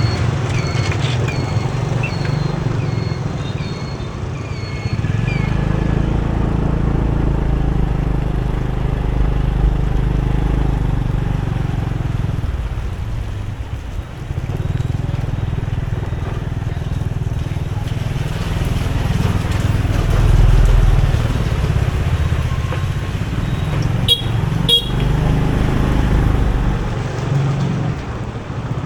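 A motorbike riding through city traffic in the rain, with steady engine and road noise. A string of short high beeps sounds in the first few seconds, and two short horn toots come about 24 seconds in.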